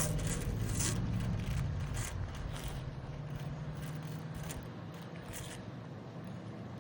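Light scraping and rustling in short scratchy strokes as hands pull old chrysalises and their silk off a butterfly house. A low steady hum underneath fades out about four and a half seconds in.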